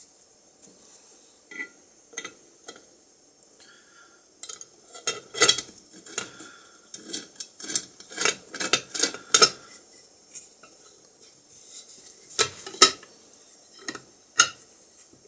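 Small steel parts of a restored antique iron clinking and clicking against each other and a hard surface as they are handled. A few light taps come first, then a busy run of clinks from about four to ten seconds in, then a few louder single clicks near the end.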